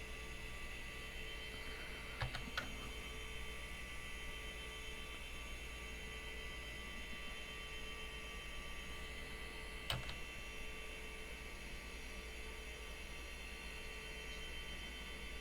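Steady electrical hum with several thin whining tones above it, from the running computer setup. There are a few sharp clicks, two close together about two seconds in and one near ten seconds.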